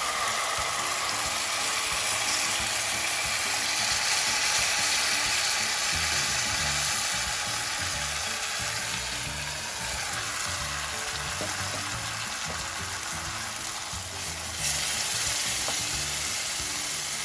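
Yogurt-and-spice-marinated chicken pieces sizzling in hot ghee with fried onion in a pan. The sizzle sets in sharply as the mixture goes in and runs on steadily, with the mixture being stirred.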